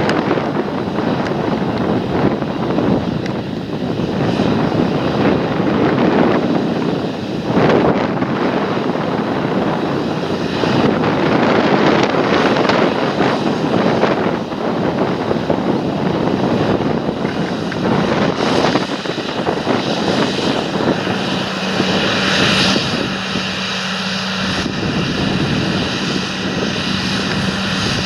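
Large John Deere tractor's diesel engine running steadily under load during field cultivation, mixed with a rushing noise; a steady low hum comes in about two-thirds of the way through.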